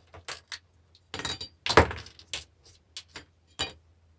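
Clinks and knocks of small metal parts being handled on a workbench while a battery charger is taken apart, with one heavier knock a little under two seconds in.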